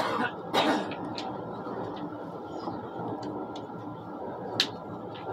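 Steady running noise of an ICE high-speed train heard inside the passenger car. A sharp click comes at the very start and another about four and a half seconds in, with a brief rush of noise half a second in.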